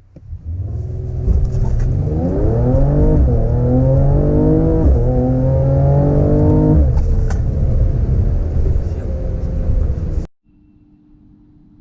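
Mercedes-AMG E53 4MATIC+ turbocharged inline-six accelerating hard, its pitch climbing through the gears with two quick upshifts about three and five seconds in, then easing back to a steady cruise near seven seconds. The sound cuts off suddenly near the end, leaving a faint steady hum.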